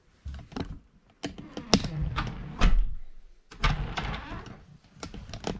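Irregular clicks, knocks and scraping of door latch hardware being handled and worked by hand, with a few louder clunks.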